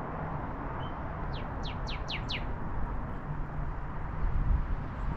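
Northern cardinal singing: one short note, then a quick run of five downslurred whistles, over a steady low background hum.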